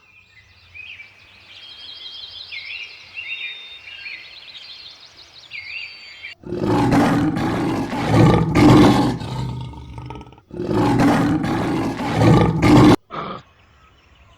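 Birds chirp faintly for about six seconds. Then a big cat roars loudly twice, each roar lasting a few seconds, followed by a short call.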